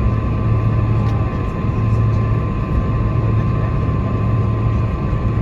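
Boeing 747-400 cabin noise while taxiing: a steady low engine hum with a thin steady whine above it and a rumble underneath, heard from inside the cabin.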